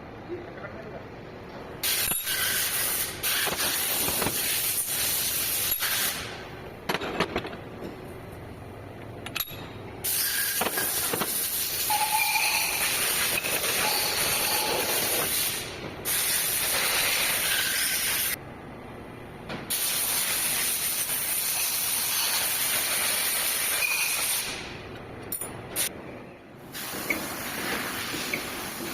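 Loud hissing in several long bursts of a few seconds each, starting and stopping abruptly, with a few clicks in the quieter gaps between them.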